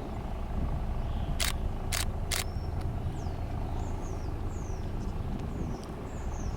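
Diesel locomotive engine running with a steady low rumble. Three sharp clicks come about a second and a half to two and a half seconds in, and small birds chirp in the second half.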